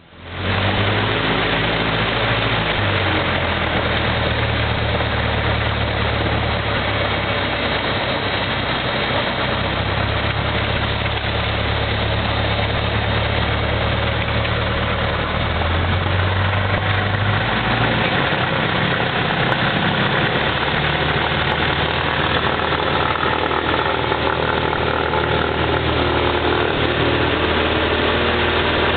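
Cessna 172 single-engine airplane's piston engine and propeller running steadily, a loud constant drone; the low engine tone shifts a little about two-thirds of the way through.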